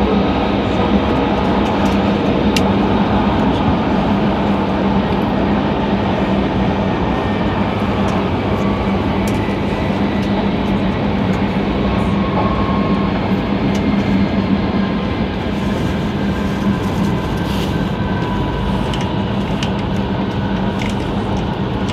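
Cabin noise of an E5 series Tohoku Shinkansen train running at speed: a steady rumble with a constant low hum.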